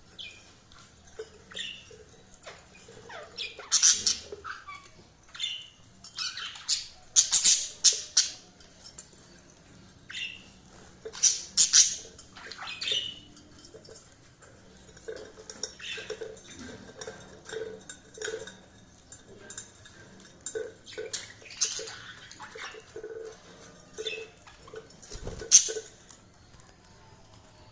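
Budgerigars chirping and squawking in short, irregular calls, a few of them loud and sharp, with softer chatter between.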